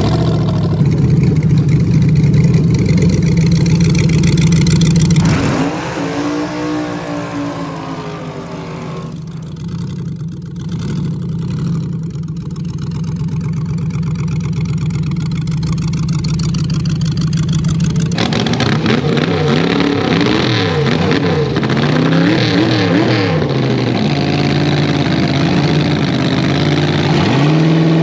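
Drag car's LS V8 engine running loud, holding a steady note for long stretches and revving up and down with rising and falling pitch in the later part.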